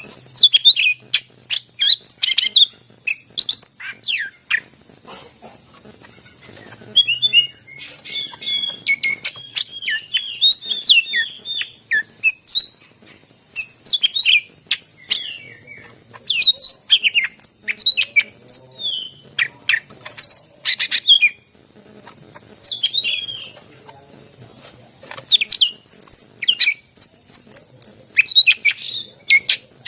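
Green leafbird (cucak ijo) singing a fast, varied song of short chirps and sweeping whistles in rapid bursts, with a few brief pauses.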